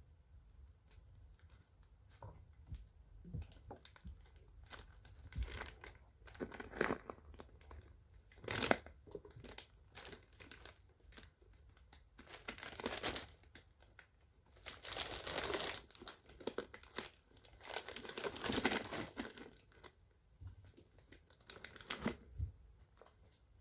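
Crinkling and rustling of handled material in irregular bursts, with several louder stretches in the second half.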